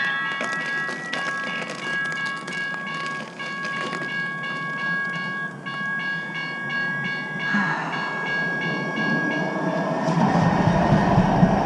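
Train passing: steady high-pitched tones with a fast pulsing ring in the middle, then a louder low rumble in the last second or two as it comes close.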